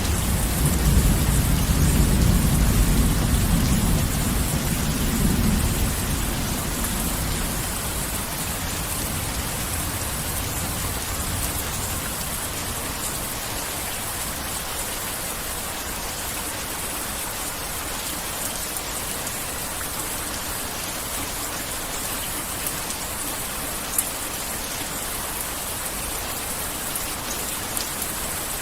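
Heavy rain falling steadily, with a low rumble of thunder dying away over the first several seconds. One sharp drip-like tick stands out near the end.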